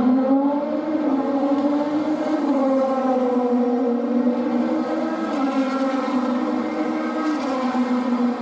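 BMW M4 DTM race car's turbocharged four-cylinder engine running, a steady engine note whose pitch wavers gently up and down.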